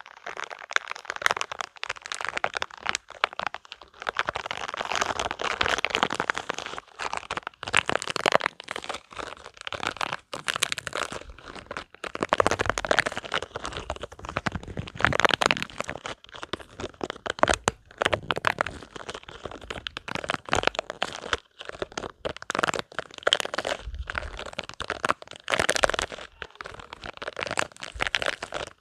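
Spiky rubber balls squeezed and rubbed close to the microphone: a dense, irregular run of sharp clicks and rustling with brief pauses between handfuls.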